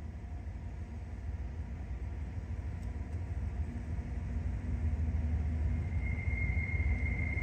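Freight train rumbling, its low rumble growing louder as it approaches. A thin, steady high-pitched whine comes in about six seconds in.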